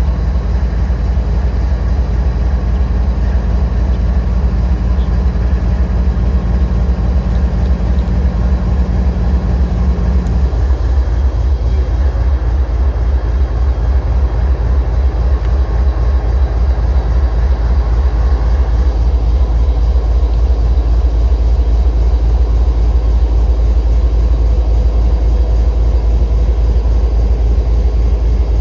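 Diesel locomotive engine running close by, a loud, steady, low rumble that pulses quickly and evenly. A steady hum over it cuts off about ten seconds in.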